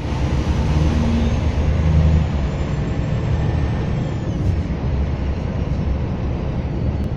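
Scania bus diesel engine running under way at highway speed, with road noise and a faint high turbocharger whistle that climbs slowly, then falls away about four seconds in.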